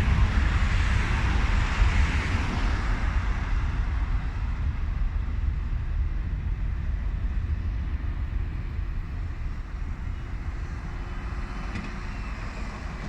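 Jet airliner engine noise from a passing aircraft, a deep rumble with a hiss that slowly fades away.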